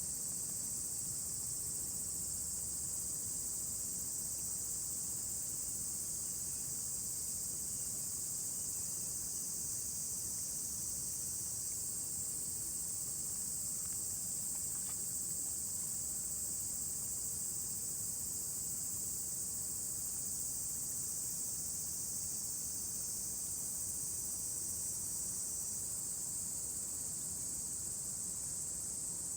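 Steady, unbroken high-pitched chorus of insects singing, with no pauses.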